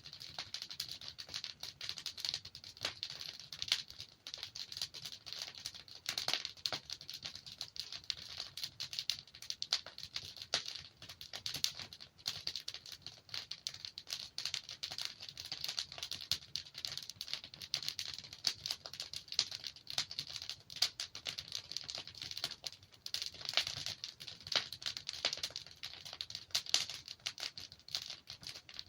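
Wood fire burning in a fireplace: a steady, dense crackle of many small snaps, with now and then a louder pop.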